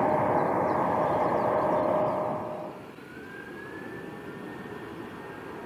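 Jet airliner engines: a loud rushing noise with a steady whine, which drops off sharply about two and a half seconds in. A quieter rumble follows, with a faint whine that rises in pitch.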